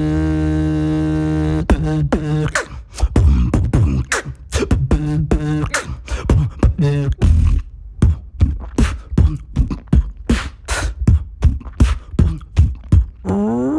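Mouth beatboxing: a steady hummed low drone, then about one and a half seconds in a fast vocal drum pattern of sharp clicks, kicks and snares. Right at the end a voiced howl starts to rise in pitch.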